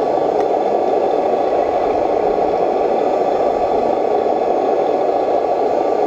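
Steady mechanical whirring with a rattle, even in level throughout, with a faint constant whine above it.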